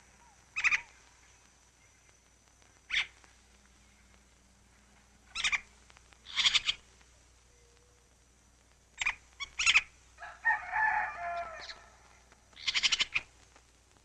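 Scattered animal calls, likely birds: about seven short, sharp calls at irregular intervals, and one longer wavering call lasting about a second, some ten seconds in.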